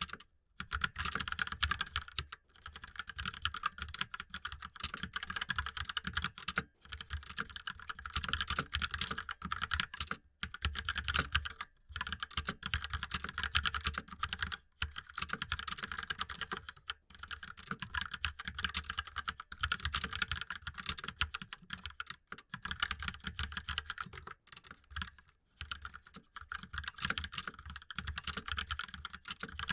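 Fast, continuous typing on a laptop keyboard, dense key clicks broken by short pauses every couple of seconds.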